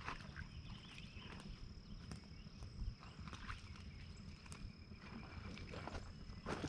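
Faint handling and movement noise while a fish is being landed: a low rumble with scattered light clicks and knocks, over a steady thin high-pitched whine.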